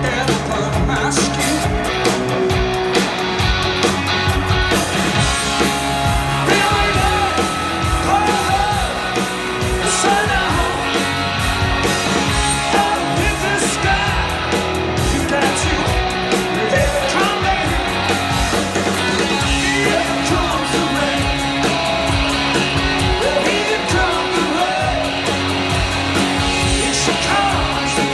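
Live rock band playing: electric guitars, bass and drums, with a male lead vocal that wavers in pitch over the band from about six seconds in.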